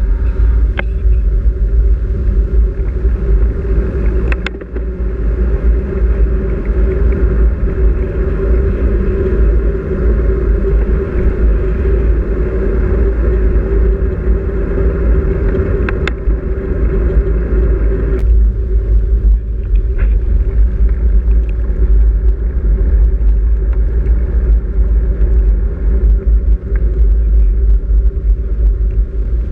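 Steady wind and road rumble buffeting a camera microphone carried on a moving bicycle, with a few sharp clicks and knocks from bumps along the way.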